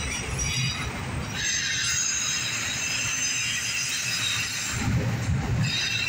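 Autorack freight cars rolling past with a steady low rumble of steel wheels on rail. A high-pitched wheel squeal sets in about a second and a half in, fades out partway through, and comes back near the end.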